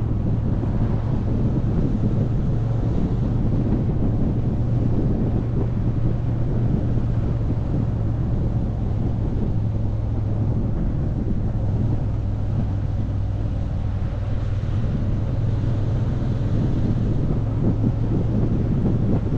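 Motorcycle engine running at a steady cruise, a constant low drone, under heavy wind noise on the microphone.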